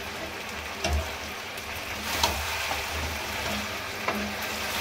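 Chicken and chopped tomatoes sizzling in hot oil in a kadhai, stirred with a metal spatula that clinks and scrapes against the pan a few times. The sizzle grows a little louder about two seconds in, as the tomatoes are turned into the oil.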